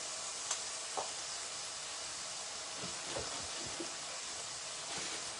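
Onions, tomato and ground spices sizzling in hot oil in a pan, a steady hiss, with a few light clicks.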